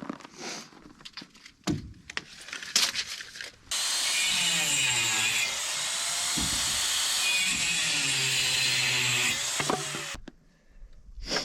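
Power drill driving a screw into wood for about six seconds. The motor's pitch dips and recovers as it bogs under load, then it stops abruptly. A few knocks and clicks of handling come before it starts.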